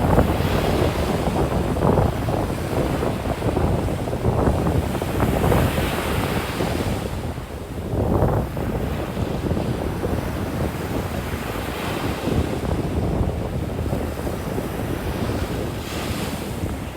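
Ocean surf breaking and washing up the beach, the hiss swelling every few seconds, with wind rumbling on the microphone.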